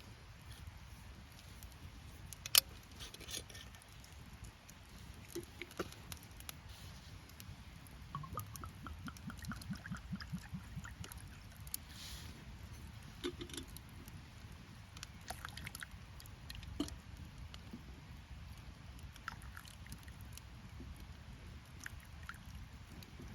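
Liquid poured into a cup or bottle from about eight seconds in, its glugging rising in pitch as the vessel fills, over a steady low background hiss. Scattered small clicks and knocks, one sharp click about two and a half seconds in the loudest.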